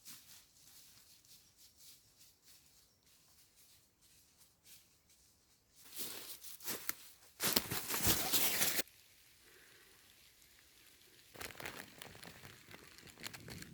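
Bursts of crunching, crackling noise: the loudest lasts about a second and a half in the middle, with softer scattered crackles before and a second run near the end.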